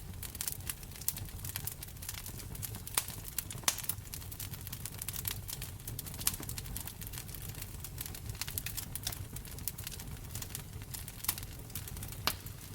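Wood fire crackling in a fireplace: dense small snaps and pops over a low steady rumble, with a few sharper pops, the loudest a little under four seconds in.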